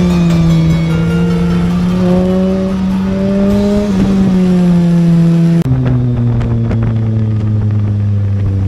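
Motorcycle engine running steadily under way, then dropping sharply in pitch about two-thirds of the way through.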